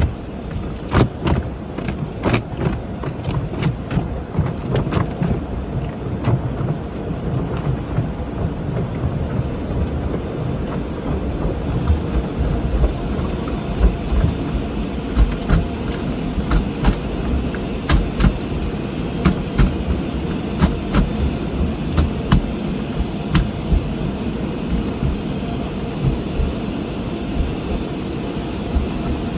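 Automatic car wash working over a car: a steady low rumble with many irregular sharp knocks and slaps as water and brushes hit the body.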